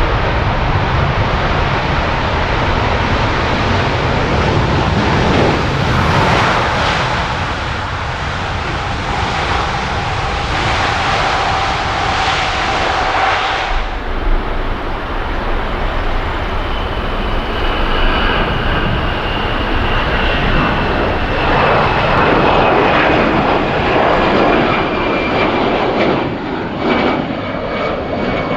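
Jet airliner engines running loud and steady, a deep rumble with a thin whine above it. About halfway through the sound changes abruptly, and a jet with a high whine follows that slowly falls in pitch.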